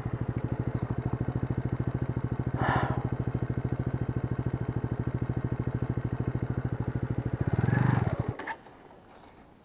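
Junak M12 motorcycle's single-cylinder four-stroke engine running at low speed with an even, rapid beat as the bike rides slowly off-road. There is a brief burst of noise about three seconds in and a short rise in engine sound near the end, then the engine sound cuts off suddenly.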